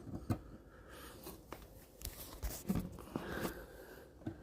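Scattered small clicks, knocks and rustles of objects being handled close to the microphone.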